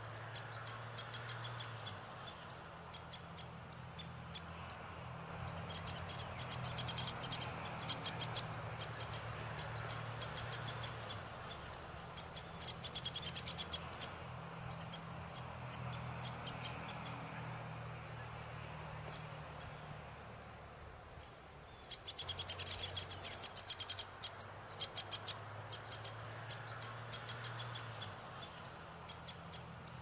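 Birds chirping in a series of short high chips, with quick dense runs about thirteen seconds in and again a little past twenty-two seconds in, over a steady low hum.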